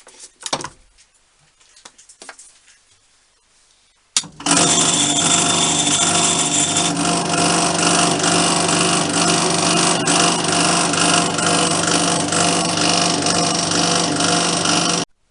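A few light knocks and clicks of handling, then about four seconds in a workshop power tool starts and runs loudly and steadily for about ten seconds before cutting off abruptly.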